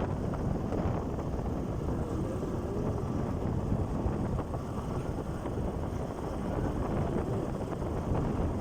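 Motorcycle running at speed on an open road, its engine drone mixed with wind buffeting the microphone.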